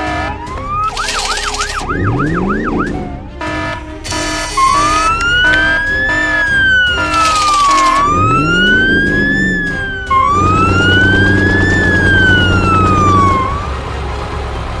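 Police car siren wailing, rising and falling slowly three times, with a quick yelp a second in, over background music. Twice a rising swoop cuts in, and near the end a vehicle engine runs under the siren.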